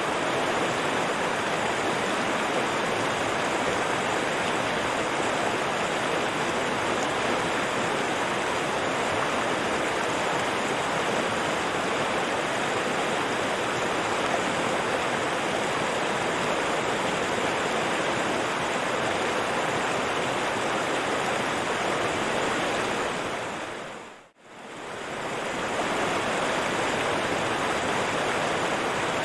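River water flowing and rushing in a steady, even wash. About 24 seconds in it fades out to near silence and fades straight back in.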